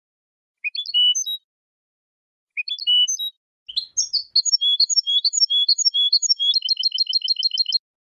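European goldfinch singing: two short chirping phrases, then a longer run of high notes that ends in a fast trill of about eight notes a second before stopping abruptly.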